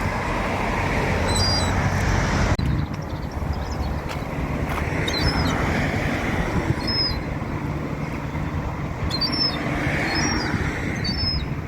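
Steady low rumbling noise with a young gull's short, high-pitched calls repeated about six times through it.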